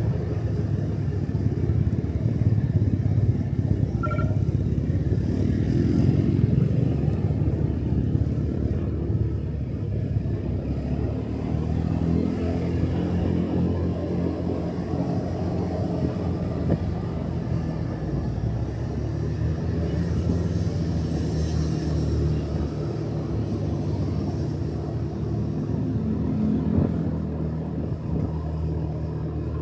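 Motorcycle engine running under way, heard from the rider's seat, its pitch shifting up and down with the throttle, with a clear rise about halfway through.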